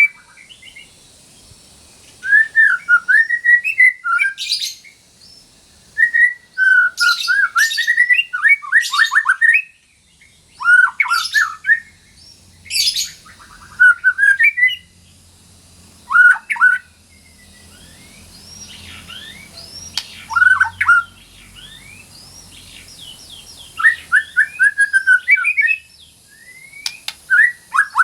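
White-rumped shama (murai batu) singing loud, varied phrases of quick sweeping whistles and chatters, each a second or two long, with short pauses between them.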